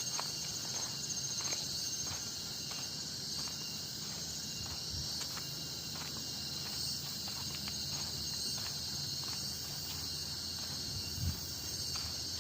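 A steady, high chorus of forest insects, with the walker's footsteps on the trail falling about twice a second and a low thump near the end.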